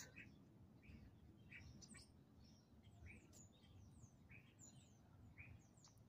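Small birds chirping faintly: short high notes, some sweeping down in pitch, about two a second, over a quiet low background hum.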